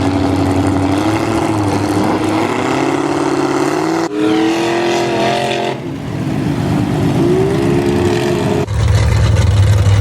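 Truck engines at a mud bog revving up and down, loud, in several short pieces that change abruptly about four, six and nine seconds in.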